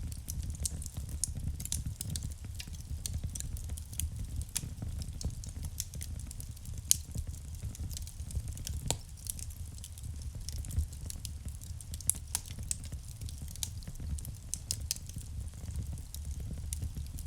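Wood fire burning in a fireplace: a steady low rumble of flame with irregular crackles and snaps, a few sharper pops standing out.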